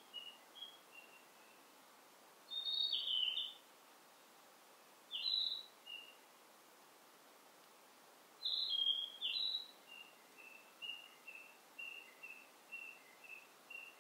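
Songbirds singing in forest: loud, short whistled phrases every few seconds, then from about ten seconds in a run of quick, evenly spaced notes, about two a second, over a faint steady hiss of forest ambience.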